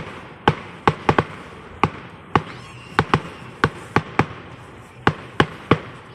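Fireworks going off in a rapid, uneven run of sharp bangs, about two or three a second.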